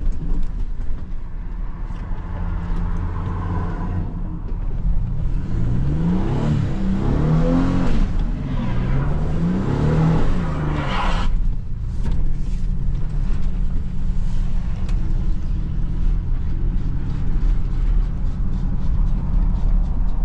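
Car engine revving up and down several times, over a steady low rumble, as the driven wheels spin on snow.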